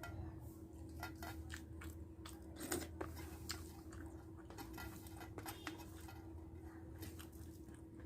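Close-miked chewing and eating sounds of a person eating rice with dried fish: scattered small clicks and smacks, with a steady low hum underneath.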